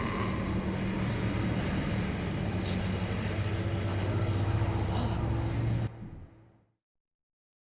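A deep, steady rumble with a low hum from an anime soundtrack, with a few faint ticks. It cuts off abruptly about six seconds in and falls to dead silence.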